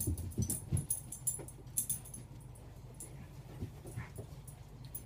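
A dog whimpering a few short times in the first second, with light metallic jingling throughout.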